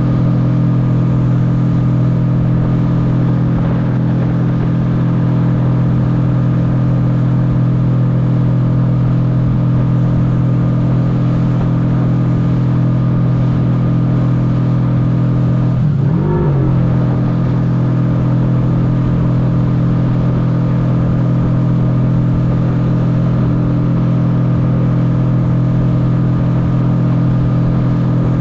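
Jet ski engine running steadily at high throttle, its pitch dipping briefly and coming back up a little past halfway through.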